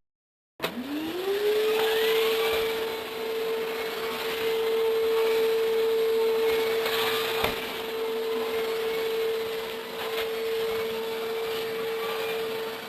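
LG vacuum cleaner with a turbo brush switching on: the motor's whine rises to a steady pitch within about a second, then runs steadily with a hiss of airflow and a few sharp clicks.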